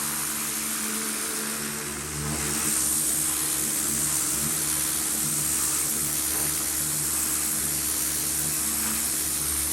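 Pressure washer running: a steady motor drone under the loud hiss of the water spray, which gets a little louder about two seconds in.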